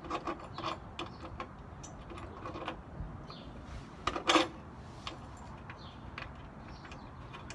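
Irregular small metallic clicks and taps from hand tools working on a minibike, with one louder clank about four seconds in.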